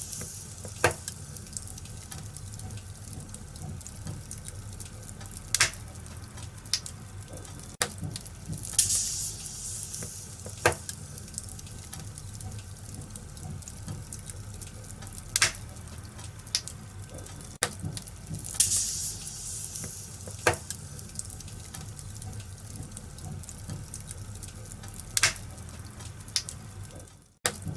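Wood fire burning in a fireplace: a steady low rumble and hiss of flames with sharp crackles and pops every second or two, and a hissing surge about every ten seconds. The sound drops out for a moment near the end.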